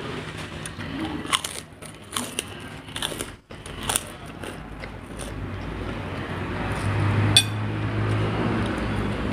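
A person eating fried chicken with serundeng by hand: biting and chewing with short crunchy clicks. In the second half a low steady hum grows louder, and there is one sharp tap about three-quarters of the way through.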